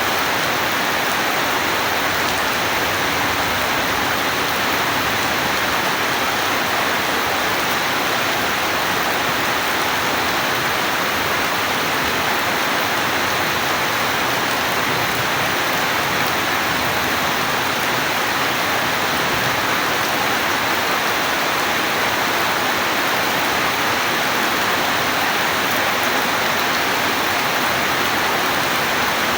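Steady heavy rain falling: a dense, even hiss of drops that holds level throughout, with no thunder claps.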